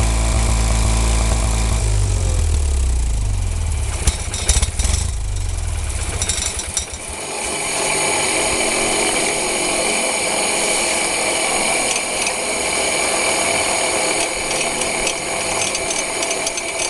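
Onan 20 HP twin-cylinder engine of a Wheel Horse 520H garden tractor running, then slowing with its pitch falling over several seconds, with a few sharp knocks in the middle. After that a steadier, higher-pitched mechanical whir with some rattle carries on.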